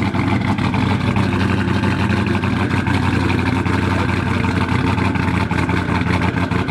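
A muscle-car V8 idling with a choppy, lopey idle.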